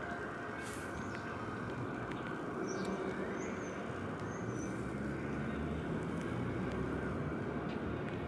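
A train rumbling as it approaches, its low rumble building somewhat louder about halfway through.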